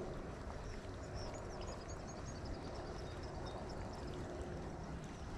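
Faint ambience on the water from a kayak: a steady low rumble of wind and water, with a few faint short high chirps about a second in.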